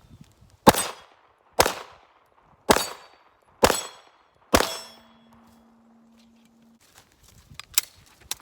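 Five handgun shots from a compensated STI DVC Omni pistol, about one a second, each followed by the ringing clang of an AR500 steel target being hit.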